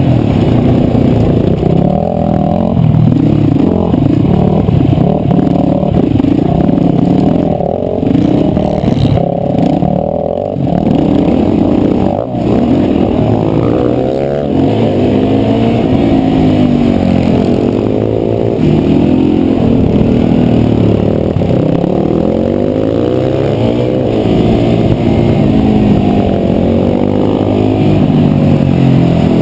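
KTM 525's single-cylinder four-stroke engine running hard under race load, its pitch repeatedly rising and dropping as the throttle is opened and closed and gears are changed.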